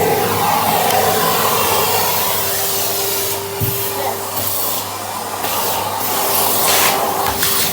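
Vacuum cleaner with a brush attachment running steadily, sucking up cobwebs. A steady tone joins the airflow about two seconds in, and the hiss surges and drops several times in the second half as the nozzle moves against surfaces.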